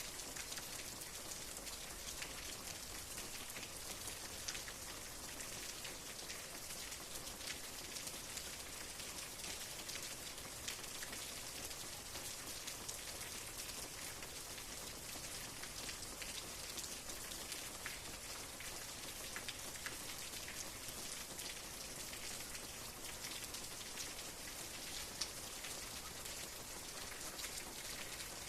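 Steady rain, with many individual drops ticking sharply on a surface over an even hiss.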